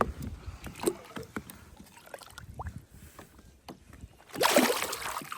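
Small knocks and taps on a fishing kayak, then about four seconds in a loud splash of water lasting about a second.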